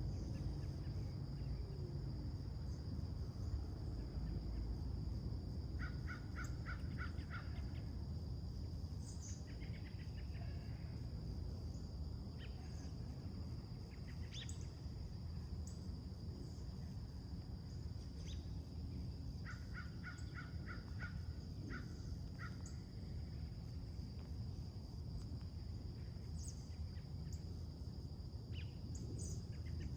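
Crows cawing in two quick runs of about six caws, one about six seconds in and another around twenty seconds. Underneath is a steady high insect drone, scattered faint bird chirps and a low background rumble.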